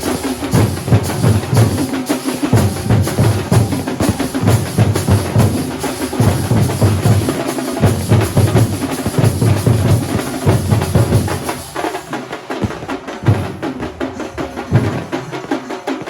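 Kerala thambolam drum troupe playing a fast, dense rhythm of deep drum beats over a constant cymbal hiss. About twelve seconds in, the deep beats thin out and leave lighter, sparser strokes.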